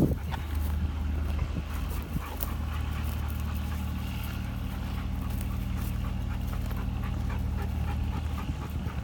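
A dog panting and moving close by, over the steady low hum of a running generator engine.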